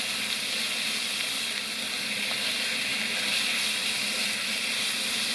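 Food frying in a hot pan: a steady sizzle.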